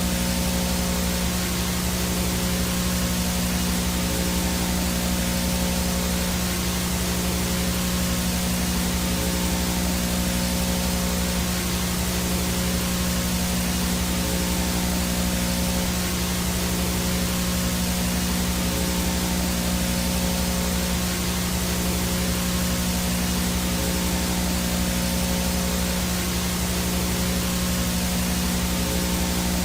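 Analog VHS static: a steady hiss of white noise with a low electrical hum and a faint high whine laid over it, unchanging throughout.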